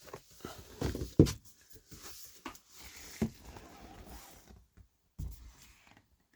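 A folded cardboard game board being handled and laid out, with a few knocks and thumps and some sliding, rustling noise in between.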